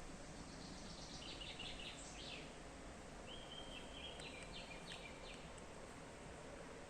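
Small songbird singing two short phrases of quick high chirps, the first about half a second in and the second about three seconds in, over a steady background hiss.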